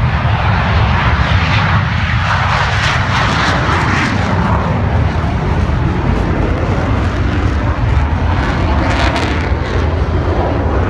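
Aircraft engine noise from a plane in flight: a loud, continuous rumble with crackle.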